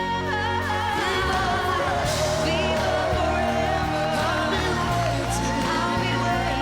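Live pop ballad: a voice holding long notes that slide and bend between pitches, over steady band accompaniment.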